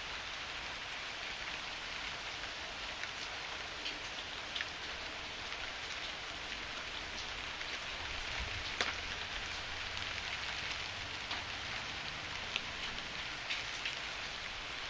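Heavy rain falling steadily, with sharp taps of single drops striking close by here and there.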